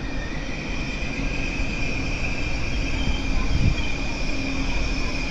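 Chinese CRH high-speed train running slowly into a station platform: a steady rumble with a constant high whine over it, and a low thump about two-thirds of the way through.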